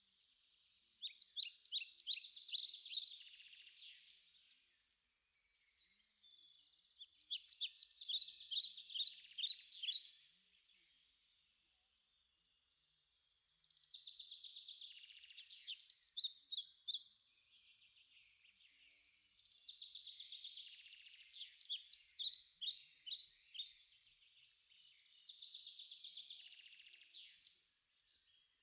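A bird singing in repeated bouts: runs of rapid, high chirps, each lasting a few seconds, about five times with short pauses between.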